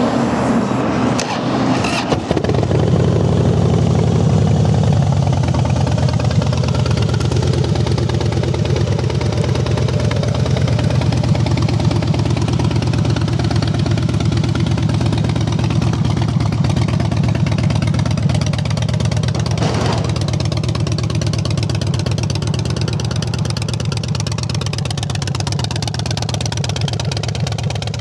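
2008 Harley-Davidson Rocker C's 96-cubic-inch fuel-injected V-twin starting about two seconds in, then idling steadily.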